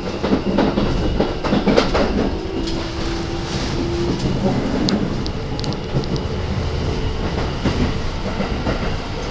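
Keikyu 1000-series electric commuter train running, heard from inside a passenger car: a steady rumble with wheels clicking over rail joints. A brief steady motor tone comes in about three seconds in.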